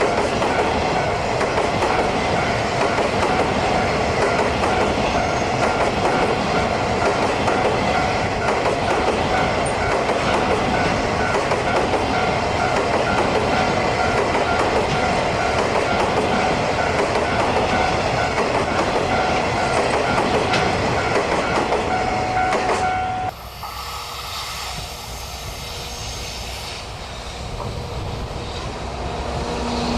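Freight train running past, its wagons' wheels clattering over rail joints, with a steady high squealing tone from the wheels. About three-quarters of the way through the sound cuts off abruptly to a much quieter rumble, which builds again near the end.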